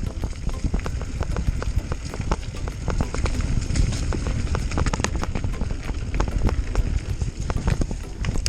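Mountain bike riding down a rough dirt trail: a steady low rumble of tyres and wind on the microphone, with a dense, irregular rattle of clicks and knocks from the bike over the bumps.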